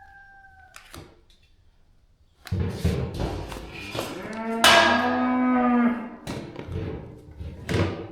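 Cow mooing: one long moo starting about two and a half seconds in, with a few knocks around it.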